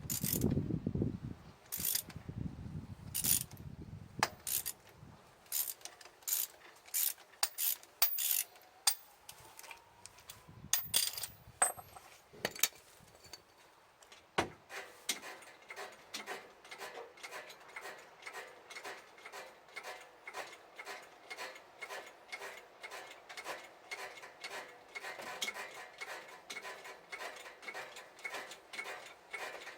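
Mechanical clicking from hand tools during a truck tire change: scattered sharp clicks at first, then from about halfway a steady run of even clicks, about three a second.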